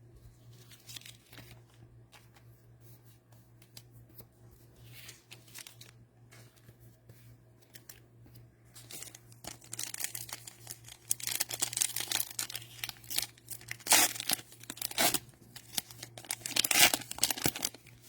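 A foil trading card pack wrapper being crinkled and torn open by hand. The first half is quiet handling with faint clicks, then crinkling and tearing starts about halfway through and is loudest near the end. A faint steady low hum runs underneath.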